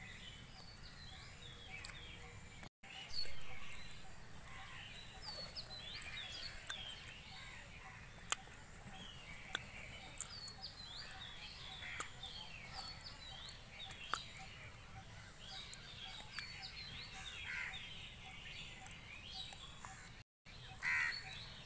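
Small birds chirping and calling over and over in the surrounding bushes and trees, over a steady low outdoor rumble. A few sharp clicks fall here and there, and a brief louder noise comes just after three seconds.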